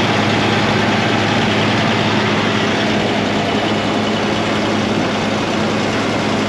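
Continental six-cylinder gasoline engine of a 1945 Oliver Cletrac AG6 crawler tractor idling steadily, a smooth-sounding even hum.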